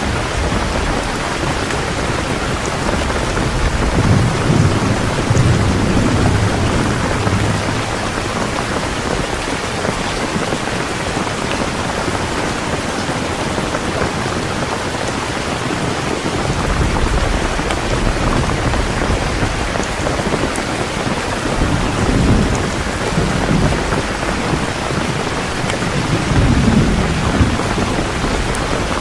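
Heavy rain falling steadily, with low rolls of distant thunder swelling up several times, the strongest about four to seven seconds in and again near the end.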